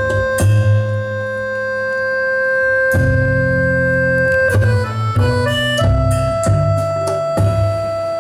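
Live band music led by an accordion holding long, steady chords, with a quick run of short notes about five seconds in. Double bass notes change underneath, with a few percussion hits.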